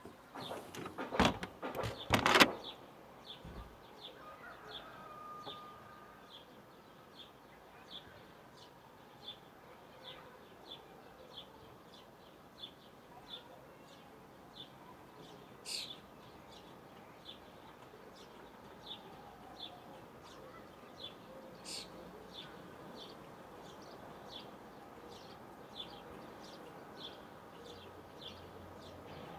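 Evening outdoor nature ambience: a short high chirp repeats evenly, about three every two seconds, with a couple of sharper, brighter chirps now and then. Loud knocks and rustles in the first few seconds.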